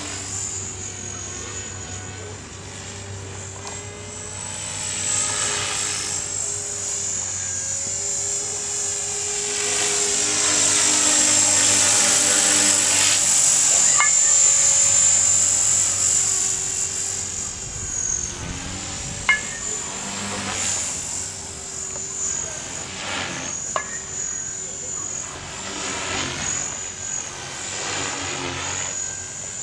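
Electric 450-size RC helicopter (Trex 450 clone) in flight: a steady high-pitched motor and gear whine over rotor noise, its pitch and loudness wavering as it moves, loudest about halfway through. A few brief sharp clicks are heard in the second half.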